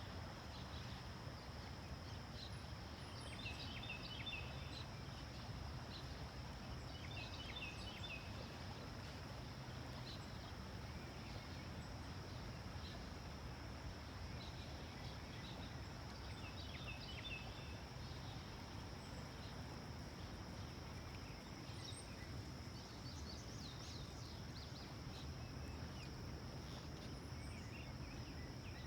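Faint creekside ambience: insects keep up a steady high drone while a bird gives short bursts of chirps four times, over a low rumble of background noise.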